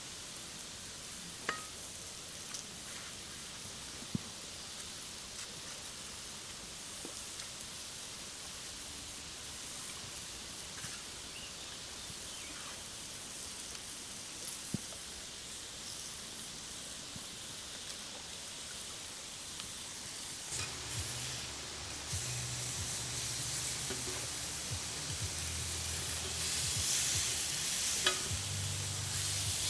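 Steaks sizzling over a campfire: a steady hiss with a few sharp pops. About twenty seconds in, a low rumble joins and the sizzle grows louder.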